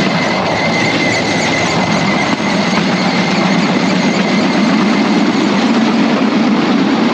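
Bamboo train (norry) running along the rails: its small motor and wheels on the track make a loud, steady noise, with a thin high squeal over the first two seconds or so.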